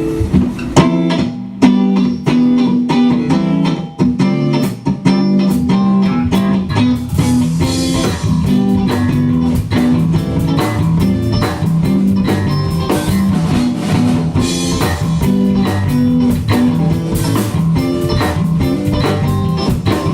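Live rock band playing an instrumental passage: electric guitar over a drum kit. The drums come in with a run of hits right at the start, after a held guitar chord, then settle into a steady beat.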